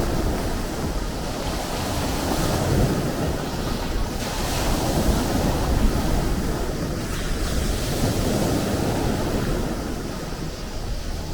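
Sea waves washing ashore: a continuous rushing surf that swells up twice and eases off near the end.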